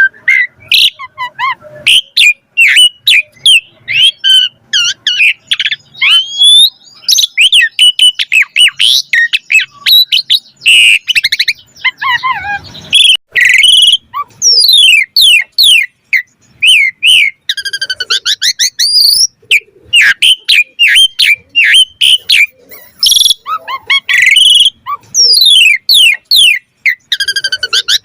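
Asian pied starling (jalak suren) singing without pause: a rapid, varied stream of whistles, harsh chatters and quick falling sweeps, a song full of copied phrases.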